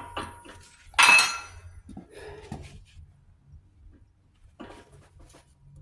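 Steel power-divider parts clinking and clanking as they are handled, with one loud ringing metal clank about a second in and a few lighter knocks after it.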